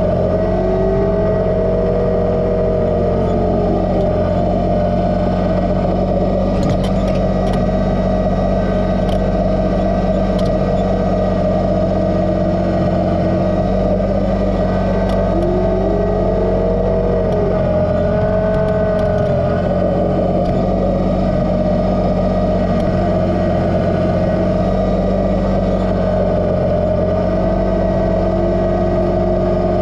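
Kubota BX2380 sub-compact tractor's three-cylinder diesel running steadily, with a whine that rises and falls in pitch three times and a few light clicks.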